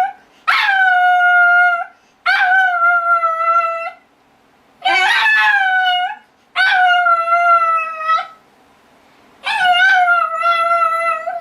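Pet dog howling: five drawn-out howls, each about a second and a half long, each starting with a quick upward swoop and then holding a steady pitch, with short breaths between.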